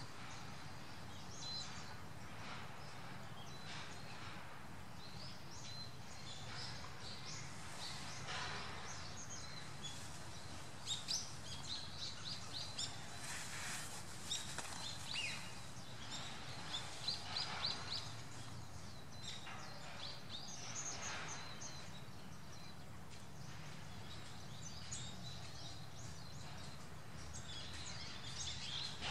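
Birds calling outdoors: many short, high chirps and whistles, thickest in the middle, over a steady low background rumble.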